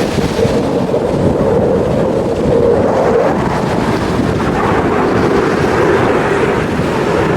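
Loud, steady roar of a jet aircraft at an airshow, swelling and easing slightly over several seconds.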